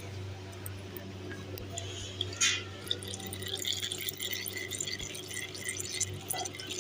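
Used engine oil draining out of a Honda SP 125's engine into a container, trickling and dripping. A short loud knock or splash comes about two and a half seconds in, followed by a steady patter of drips.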